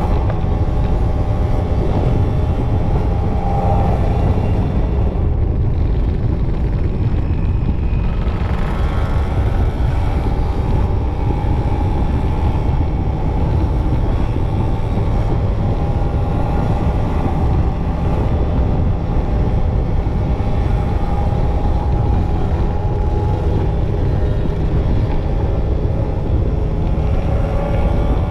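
Two-stroke motorcycle engines running at road speed, their pitch drifting up and down with the throttle, over a heavy low wind rumble on the microphone.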